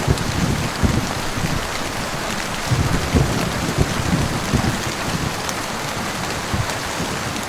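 Heavy rain falling steadily, as a dense even patter, with irregular low thuds scattered through it.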